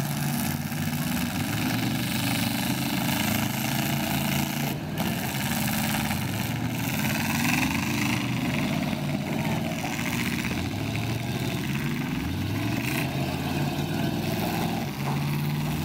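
Demolition derby car engines running and revving, more than one at once, their pitch rising and falling.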